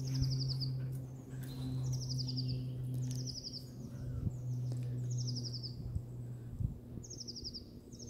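A small songbird repeating a short, high, descending trill, about six times, every second or two, over a steady low hum.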